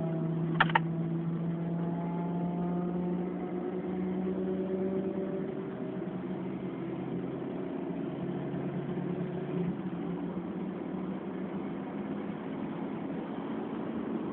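Nissan 1.4-litre car engine pulling steadily at track speed, heard from inside the cabin, its note easing down a little about five seconds in. Two sharp clicks sound about half a second in.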